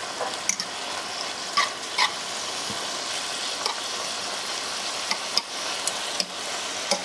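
Sliced mushrooms, salt pork and garlic sizzling steadily in a sauté pan while a utensil stirs them, knocking and scraping against the pan several times.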